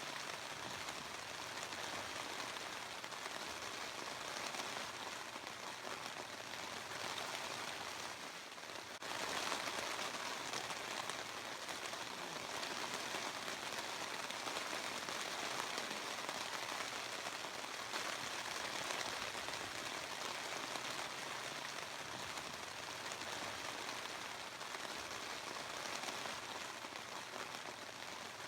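Steady rushing of water with no birdsong or voices. It dips briefly about nine seconds in and comes back a little louder.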